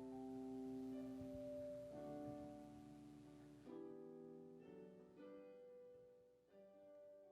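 Soft keyboard chords held and changing every second or two, fading away as the closing bars of a worship song.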